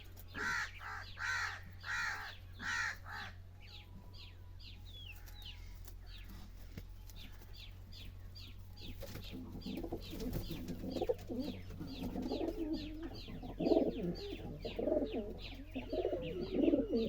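Pigeons cooing from about nine seconds in, over a steady run of thin high chirps, two or three a second. The first three seconds hold four loud, harsh bird calls.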